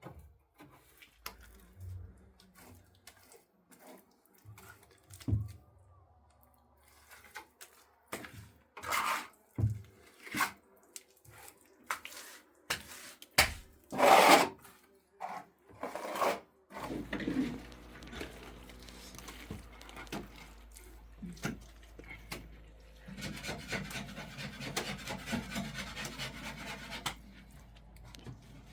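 Hand tools scraping and knocking during building repair work: a string of separate scrapes and knocks, the loudest about halfway through. Then a steady low hum comes in, with continuous rubbing over it near the end.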